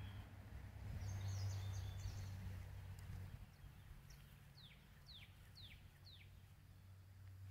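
Outdoor birdsong over a steady low hum: a brief high twitter about a second in, then four quick falling calls, about two a second.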